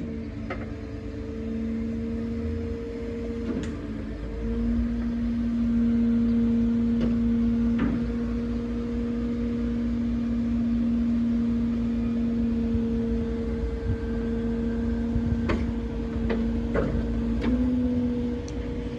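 Truck-mounted loader crane at work: the hydraulic pump and engine hold a steady hum that steps up about four and a half seconds in, as the crane is worked under load. A few short knocks and clanks sound through it.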